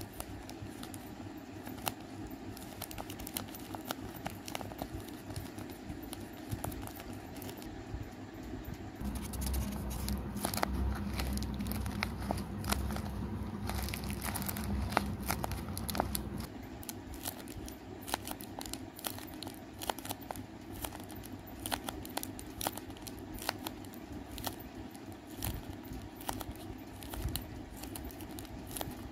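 Tape-wrapped paper squishies squeezed and pressed in the fingers, crinkling and crackling in many short bursts. A steady low hum runs under them for about seven seconds in the middle.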